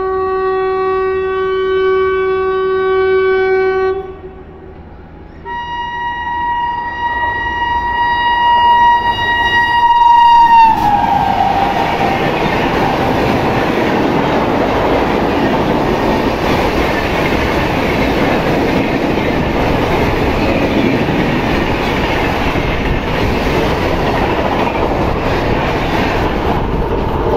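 Express train passing at speed through a station. Its locomotive sounds a long low horn blast, then after a short pause a long higher-pitched blast that drops in pitch as the engine goes by about ten seconds in. The steady rush and clatter of the coaches passing along the platform follows.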